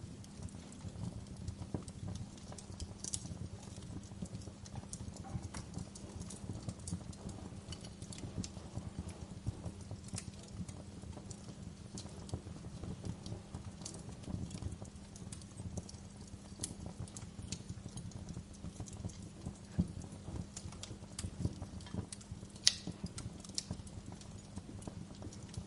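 Wood fire crackling in a fireplace: irregular sharp pops and snaps over a steady low rumble of flames, with one louder pop near the end.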